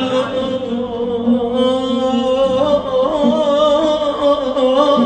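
Tarab-style Middle Eastern singing with oud accompaniment: a voice holds a long, slowly wavering melismatic line.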